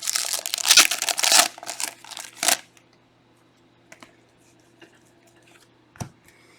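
Trading cards being handled and slid against one another: a dense rustle for about a second and a half, a few more scrapes until about two and a half seconds in, then only a couple of light clicks.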